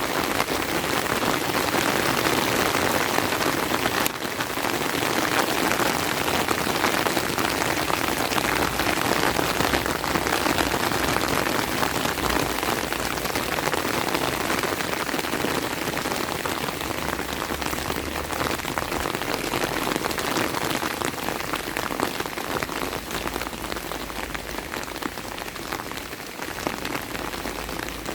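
Steady rain with a dense patter of drops, easing slightly in the last few seconds. A single sharp click sounds about four seconds in.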